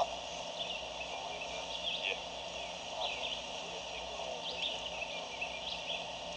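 Outdoor woodland ambience: scattered short, high chirping calls from small birds over a steady background hiss.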